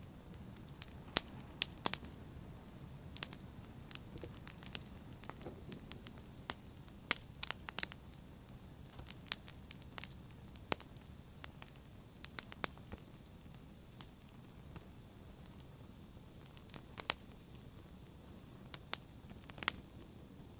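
Fire crackling in a fireplace: irregular sharp pops and snaps, several a second at times, over a faint steady hiss.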